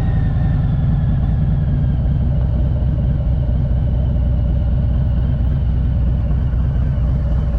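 Motorcycle engine running steadily, its pitch slowly falling as it eases off.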